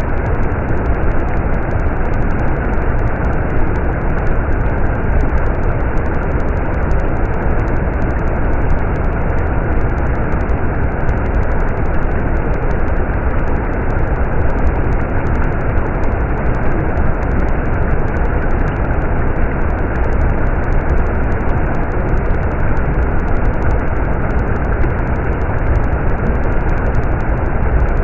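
Stream water flowing steadily, a continuous even rush heaviest in the low rumble.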